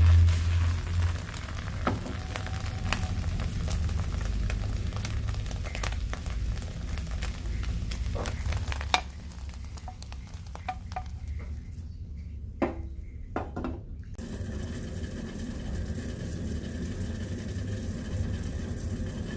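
Omelette sizzling as it fries in a pan, with scattered sharp clicks of a utensil. The sizzle thins out for a few seconds past the middle, then runs on steadily.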